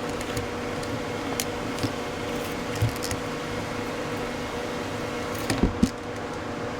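Heat gun running steadily with a fan-motor hum, as used to shrink heat-shrink tubing over a wire joint, with a few light knocks and clicks of handling, the loudest just before the end.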